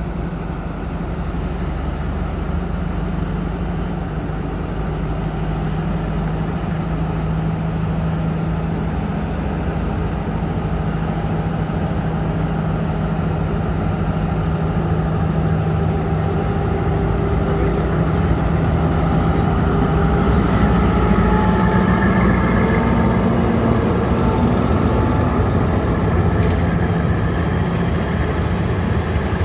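Diesel locomotive engine running steadily with a low rumble, its pitch rising about twenty seconds in.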